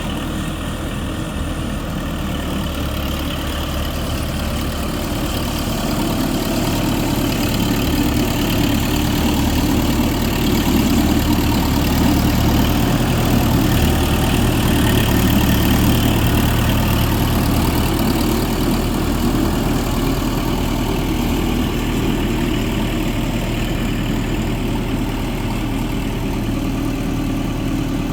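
Versatile 160 bi-directional four-wheel-drive tractor engine running steadily at a low idle, getting a little louder over the first several seconds and then holding even.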